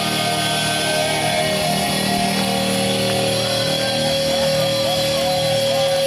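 Live punk rock band of electric guitar, bass and drums playing loudly. About halfway in, a single high tone comes in and is held to the end.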